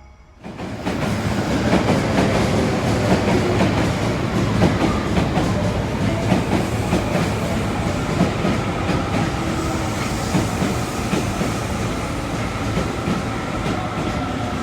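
Osaka Metro Midosuji Line train running through the station, wheels clattering on the rails, with a faint steady whine coming in about halfway through. The sound starts suddenly just after the start.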